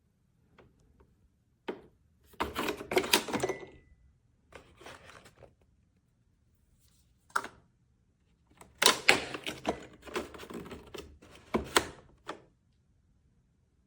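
Handling clatter: a quick click, then several short bursts of clicking, knocking and rattling, with sharp single clicks about halfway and near the end, like hard plastic and metal parts being moved, opened and set down.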